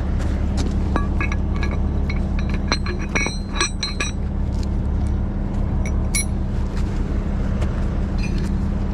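A heavy diesel engine idling steadily, with a scatter of light metallic clinks and rattles over it, densest about three to four seconds in.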